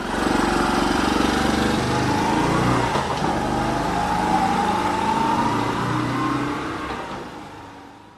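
A motor vehicle engine running and revving, with a slowly rising whine. It cuts in suddenly and fades out near the end.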